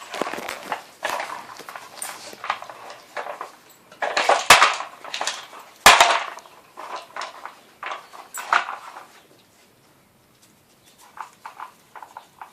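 Dog working a Dog Tornado plastic treat puzzle: a busy run of scraping, clattering noises as its rotating layers are pushed about, with two sharp knocks about four and a half and six seconds in. It goes quieter for a moment, then a few fainter knocks come near the end.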